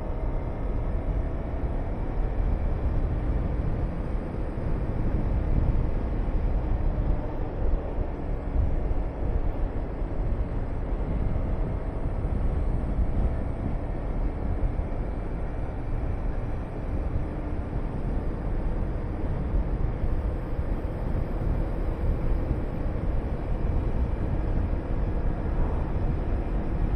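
Honda VTR250's V-twin engine running at a steady cruise under heavy wind rush on the microphone. The wind noise is the loudest part, with the engine's note faint beneath it and shifting slightly in pitch.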